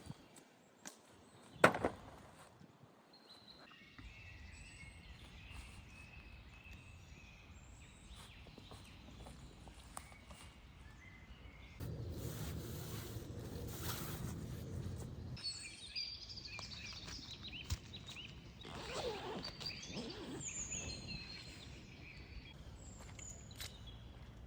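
Forest ambience with birds chirping on and off. A single sharp knock comes about two seconds in, and a louder stretch of rustling, handling noise sets in near the middle.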